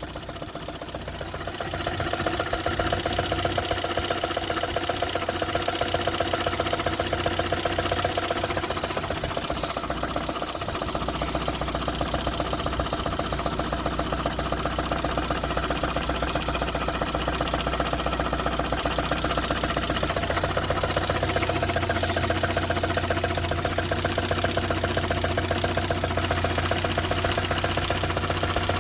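VAZ-2114 (Lada Samara) four-cylinder engine idling, with a rapid, even knock from inside the engine. It gets louder about two seconds in, then runs steadily.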